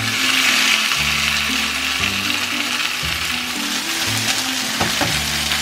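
Sliced beef sizzling in a hot frying pan of onion, garlic and ginger as it is tipped in and stirred with a silicone spatula; the sizzle swells as the meat lands and then holds steady, with a couple of light clicks near the end.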